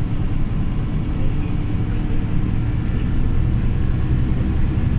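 Scania OmniLink CL94UB city bus under way, its engine and running gear giving a steady low rumble.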